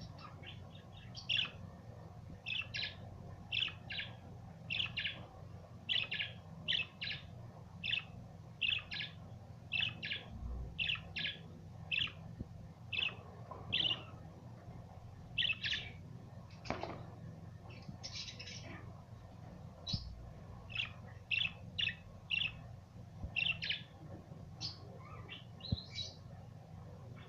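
Budgerigars chirping in a run of short, sharp calls, about one or two a second, over a steady low hum.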